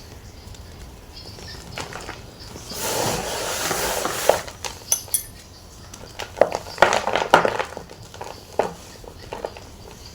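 Gym chalk being crushed and crunched: a stretch of crumbling, rustling noise about three seconds in, then a series of sharp crunches and snaps, several in quick succession past the middle.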